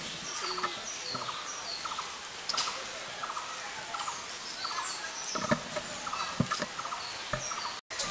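Birds calling over and over: short, high, falling whistles and quick chattering notes, with a few sharp clicks between them. The sound cuts out for a moment near the end.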